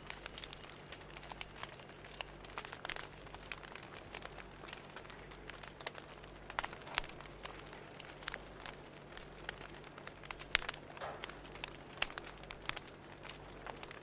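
Fire crackling: irregular snaps and pops over a soft steady hiss, with a low steady hum underneath.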